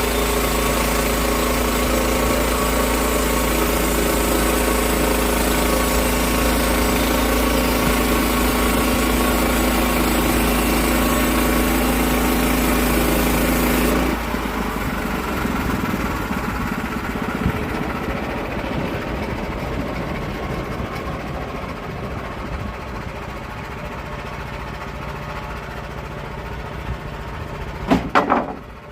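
The sawmill's small engine runs steadily, then cuts down abruptly about halfway through, leaving a fading whir. A few sharp knocks come near the end.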